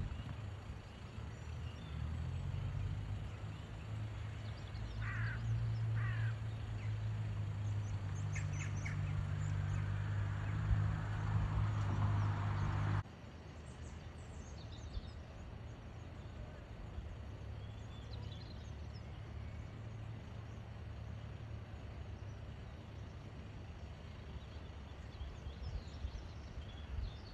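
Wild birds chirping and singing in short phrases. A low steady hum sits under them for the first half and cuts off abruptly about halfway, after which the birdsong continues more quietly.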